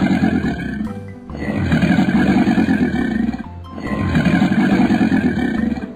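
Animated crocodile growl sound effect: a low, rough growl played three times, each about two seconds long, over children's background music.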